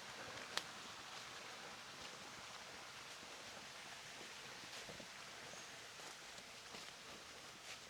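Quiet forest ambience with faint rustling, and a single sharp click or snap about half a second in.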